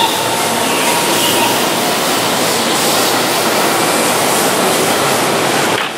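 Keihan 13000 series electric commuter train running past along a station platform: a steady rush of wheel and running noise.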